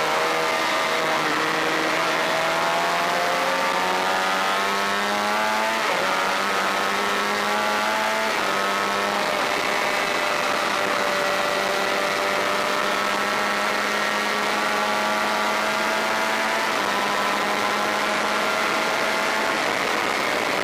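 Honda VFR400 V4 motorcycle engine under racing load: the revs climb over the first six seconds, drop sharply with an upshift, climb briefly and drop with another shift, then run at a near-steady high pitch over a constant hiss.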